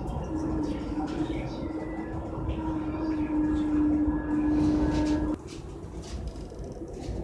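JR electric commuter train pulling out and gathering speed, heard from inside the driver's cab: a steady motor hum over the rumble of the wheels. The hum cuts off suddenly about five seconds in, leaving a quieter rumble.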